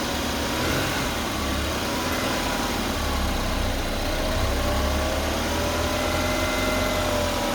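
BMW 228i's N20 turbocharged four-cylinder engine idling, with a thin whine of several tones that drift gently up and down in pitch over the engine note; the owner is unsure whether this whine is normal.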